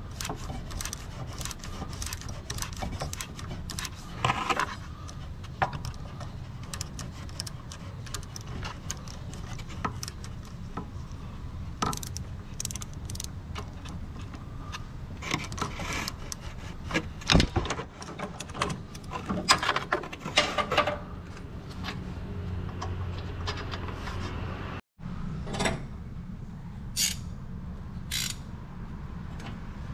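Metal hand tools and parts clinking and scraping in irregular clicks and knocks over a steady low hum, cut by a brief moment of silence about 25 seconds in.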